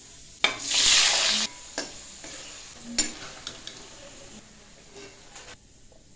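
Paneer cubes frying in hot oil in a metal kadai: a loud burst of sizzling about half a second in that lasts about a second, then a quieter sizzle with a metal spatula stirring and knocking against the pan.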